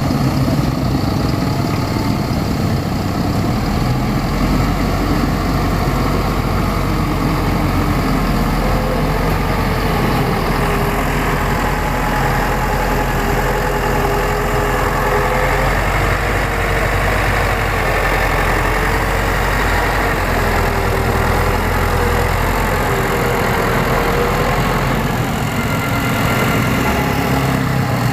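Heavy diesel construction machine (motor grader or excavator) running steadily at low revs, with a faint wavering whine above the engine note.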